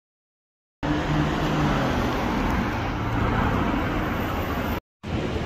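Lamborghini Urus twin-turbo V8 running as the SUV drives along a city street, its engine note dropping a little. The sound starts abruptly after a second of silence and cuts out briefly near the end.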